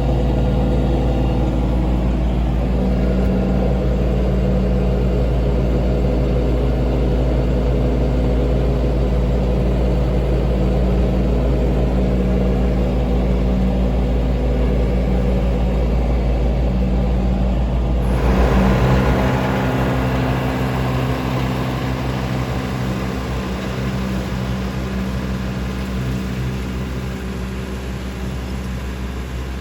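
John Deere 3039R compact tractor's diesel engine running at a steady speed while mowing with its 72-inch mid-mount deck. About 18 seconds in the sound changes abruptly, with more hiss and less low rumble, and it then grows slightly quieter.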